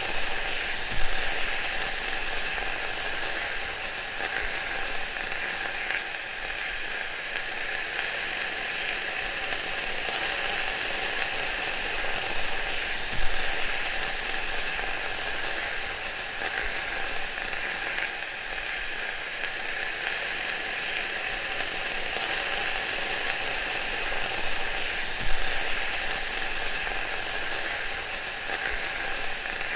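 Food frying in hot oil: a steady sizzle with fine crackling, and three louder pops, about a second in, near the middle and near the end.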